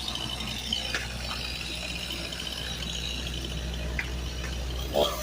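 Chainsaw engine idling steadily, an even drone that does not rev.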